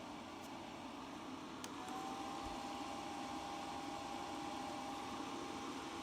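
Small battery-powered mini fan humidifier running with a steady whir. A little under two seconds in there is a click, and a steady high whine joins the whir and holds.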